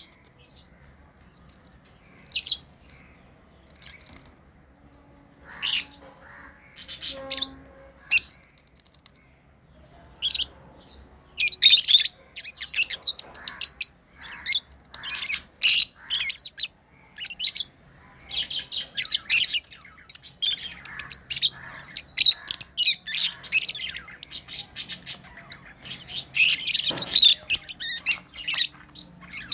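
Pet lovebirds chirping: a few scattered high calls in the first ten seconds, then rapid, near-continuous chirping from about eleven seconds in.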